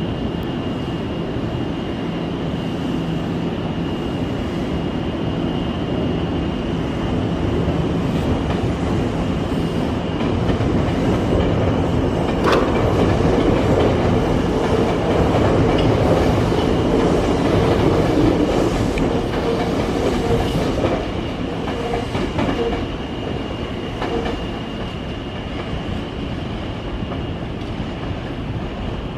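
Nankai electric train moving along a station platform, rumbling and clacking over the rails. It grows louder in the middle and then fades, with a thin steady high tone throughout.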